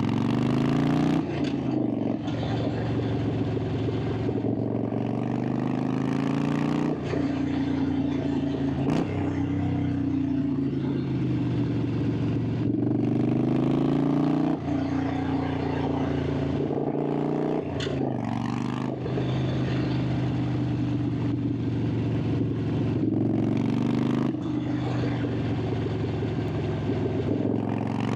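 Harley-Davidson Sportster 883's air-cooled V-twin running under way, its exhaust note climbing and falling again and again as the throttle is worked through the bends. Several brief breaks where the pitch drops suddenly, as at gear changes.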